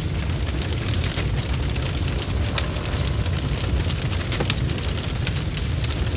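Campfire burning: a steady low rumble of flames with many sharp crackles and pops of burning wood.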